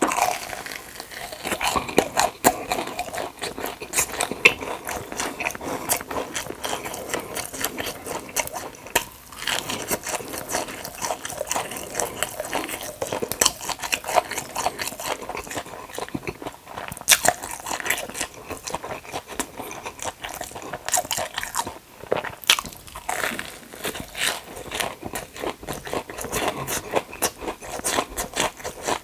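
Close-miked eating: a person biting and chewing crunchy food, with a steady run of irregular crunches and crackles and no talking.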